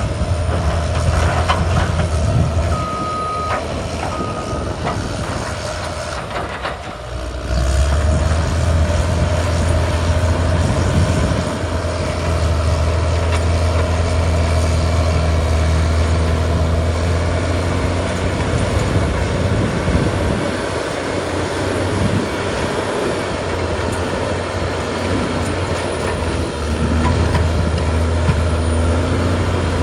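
Cat D6R2 bulldozer's diesel engine running hard while pushing, the note sagging briefly about six seconds in and then picking up again. A reverse alarm beeps briefly a few seconds in.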